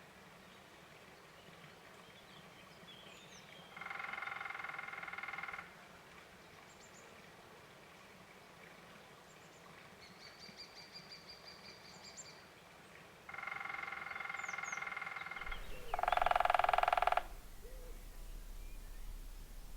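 Woodpecker drumming on resonant wood: three rapid drum rolls of about two seconds each, the last two back to back and the last one loudest. Faint high bird chirps come in between.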